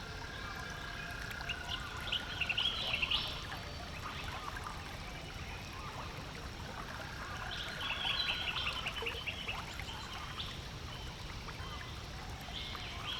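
A songbird repeating the same phrase about every five seconds, three times: a long level whistled note followed by a fast chattering trill. Steady water noise runs underneath.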